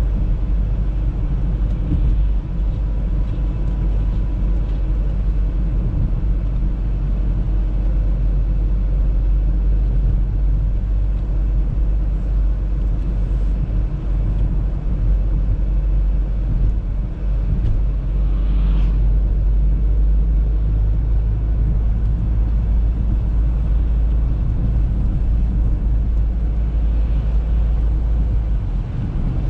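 Audi A3 driving on a snowy road: a steady low rumble of engine and road noise.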